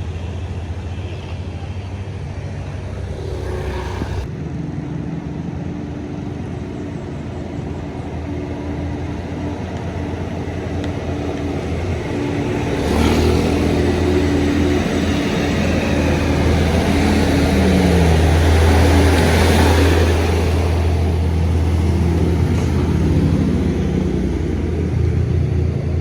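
Heavily loaded truck's diesel engine running as it passes, growing louder from about halfway, loudest a little past the middle, then easing off, with a falling pitch near its peak.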